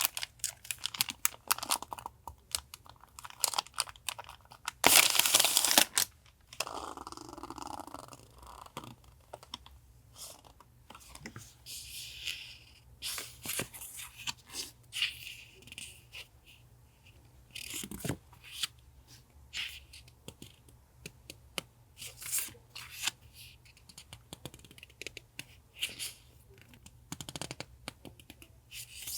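Paper and packaging being handled on a desk: rustling, crinkling and tearing with many small taps and clicks, and a loud burst lasting about a second around five seconds in.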